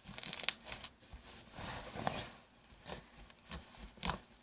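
Homemade shampoo-and-salt glitter slime being squished and pressed by hand, with a sharp pop of trapped air about half a second in and another near the end.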